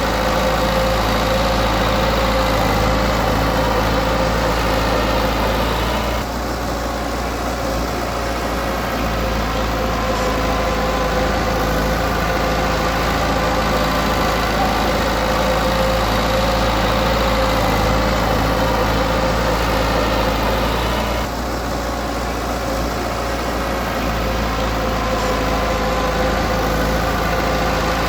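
Komatsu D20P bulldozer's diesel engine running steadily, easing off twice for a few seconds before picking up again.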